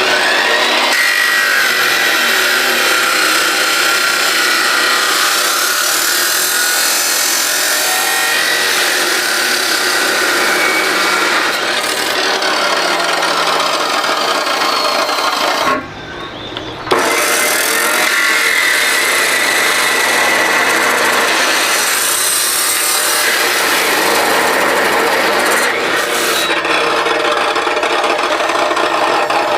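A handheld power tool cutting or grinding, running continuously with a high whine under a harsh rasping noise. It stops for about a second around the middle, then starts again.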